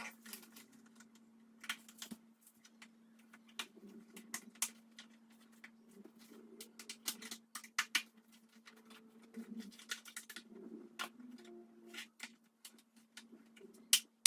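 Scattered light clicks and taps as a vinyl-roll storage rack and its packaging are handled, over a steady low hum.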